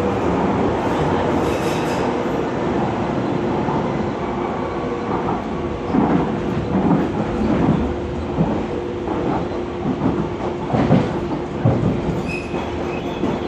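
Docklands Light Railway train running, heard from inside the carriage: a steady running hum, with the wheels clacking rhythmically over rail joints from about halfway, and a brief high wheel squeal near the end.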